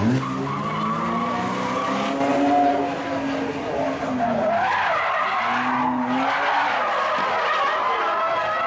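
Drift car engine revving hard, its pitch jumping up at the start, holding, then dropping and climbing again, with tyres skidding and squealing under it.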